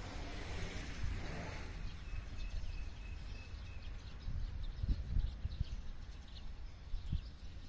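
Rural outdoor ambience: small birds chirping faintly, with one thin, high, rapid trill from about two to four seconds in. Wind rumbles and gusts on the microphone underneath.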